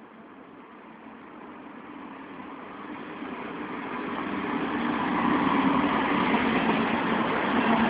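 SNCF train approaching along the line, its running noise and motor hum growing steadily louder throughout.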